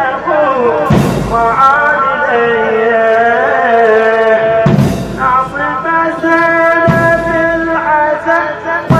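Male voices singing a Shia mourning chant (latmiya) in long, drawn-out notes, with a sharp beat about every two seconds.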